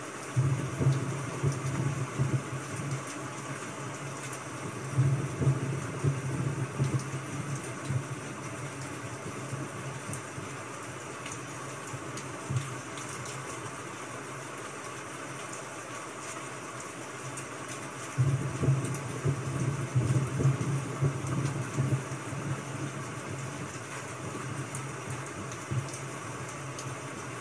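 Steady hiss of rain, with several scratchy stretches a few seconds long of a pen writing on paper.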